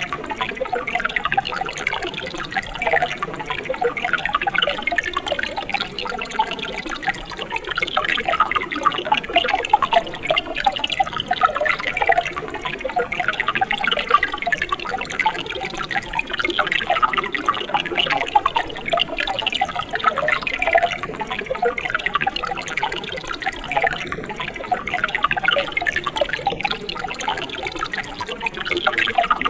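Water of a mountain stream flowing over rocks: a continuous, busy splashing made of many small, uneven splashes, without pause.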